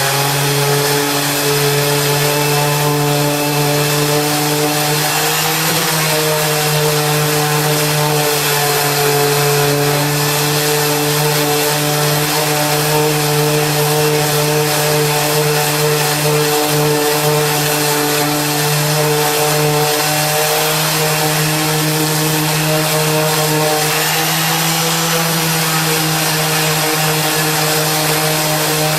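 Draper Expert 230 W random orbital palm sander running steadily while sanding the rough side of a piece of wood, its pitch shifting slightly a few times.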